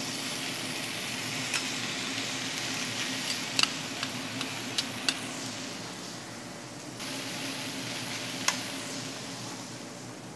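Pasta, chicken and spinach sizzling in hot olive oil as they are stirred, with the utensil clicking against the pan a handful of times.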